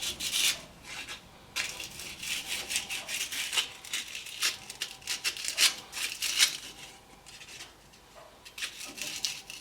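Sandpaper rubbing over the metal rod of a gas furnace's flame sensor in short scratchy strokes, busiest in the first six seconds and sparser after, cleaning off the debris that made the furnace light and then shut off.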